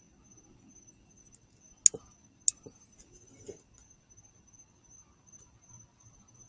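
Crickets trilling steadily on one high pitch. Two sharp clicks come about two seconds in, half a second apart, followed by a couple of softer knocks.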